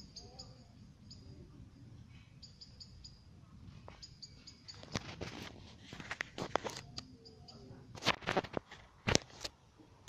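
Small birds chirping in short clusters of quick high notes. Rustling and sharp clicks come in the second half and are loudest near the end.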